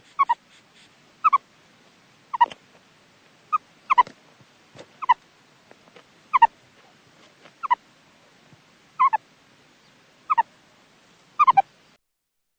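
An animal giving a series of short calls, each dropping in pitch, repeated about once a second.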